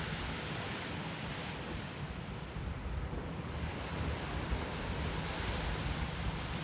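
Sea surf washing onto the beach, swelling and easing in waves, with wind buffeting the microphone.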